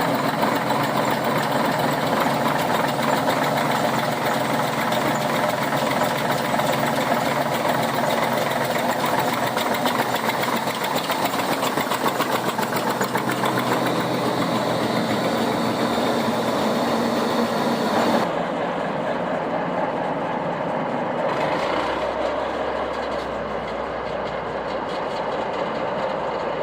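Ruston & Hornsby 165DS diesel shunting locomotive's engine running steadily at idle. About 18 seconds in the sound changes abruptly, losing its upper part, and a few seconds later a low hum comes in.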